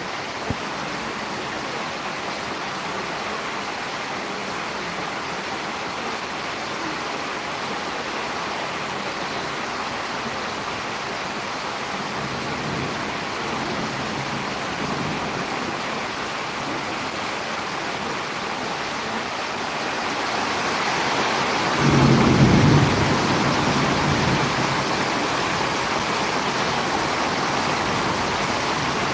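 Steady rain with wind from the night of Tropical Storm Trami, an even hiss that thickens somewhat after about 20 seconds. A brief low rumble stands out about 22 seconds in.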